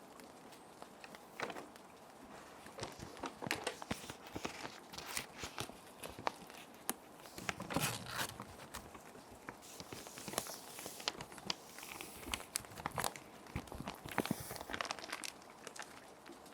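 Plastic sheet protectors crinkling and rustling in irregular sharp crackles as paper sheets are slid in and handled, over a steady background of gentle rain.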